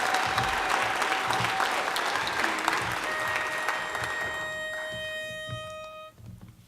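Audience applause dying away. About three seconds in, a single steady reedy note sounds for about three seconds and then cuts off: a pitch pipe giving the barbershop quartet its starting pitch.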